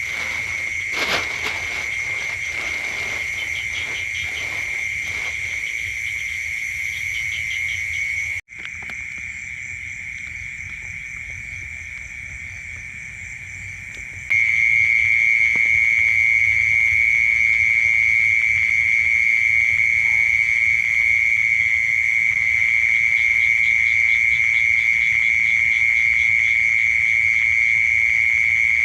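Night chorus of frogs and insects: a steady high trilling with faster pulsing higher up. It cuts out abruptly about eight seconds in, comes back quieter, then jumps back louder about fourteen seconds in; a few soft knocks sound in the first seconds.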